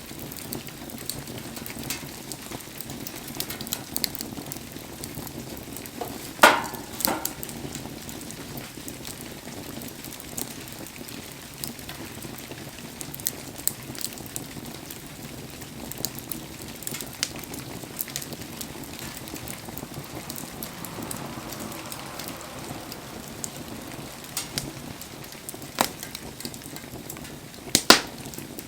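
Wood bonfire crackling, with scattered small clicks and a few sharp pops: one about six seconds in and two near the end. Rain falls with a steady hiss underneath.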